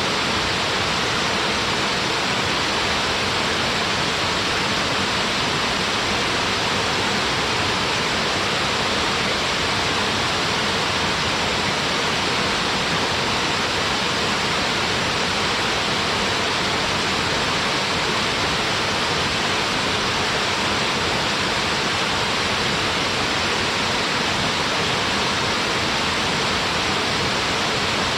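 Waterfall pouring steadily: an even, unbroken rush of falling water that does not change.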